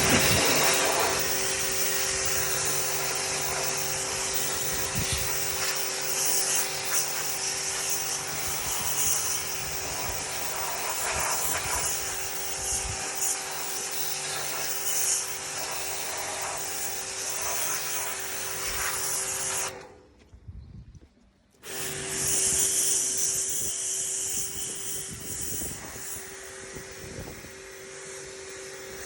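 A small electric machine running steadily with a hissing rush and a steady hum. It cuts out about twenty seconds in and starts again two seconds later.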